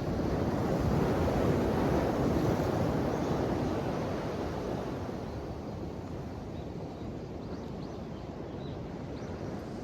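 Ocean waves: a wave surges and swells over the first few seconds, then eases back into a steady, softer wash of surf.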